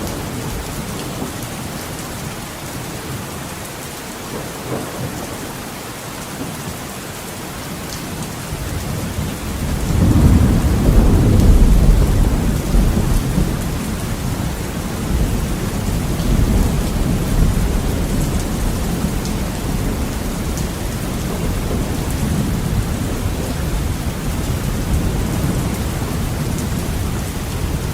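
Steady heavy rain on a window, with a long roll of thunder that swells about ten seconds in and rumbles on, slowly fading, for the rest of the time.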